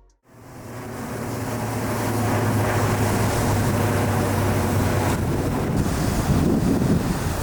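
Wind buffeting the microphone over sea surf, a steady noisy rush that fades in over the first two seconds, with a low steady rumble underneath.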